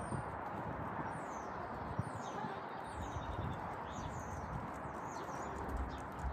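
Small birds chirping: many short, high chirps that slide downward, scattered throughout, over a steady hiss of outdoor background noise.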